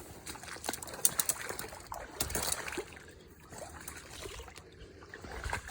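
A person moving on foot through wet brush: irregular crackling and splashing steps, loudest about a second in and again around two and a half seconds in.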